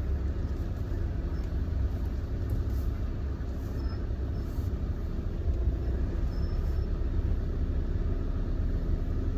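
Steady low engine and road rumble from a small truck driving slowly, heard inside the cab, with no sudden events.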